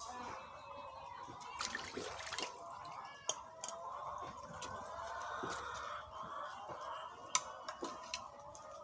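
Water splashing and dripping: a longer noisy splash about two seconds in, then several short sharp drips or plops, over a steady wavering background.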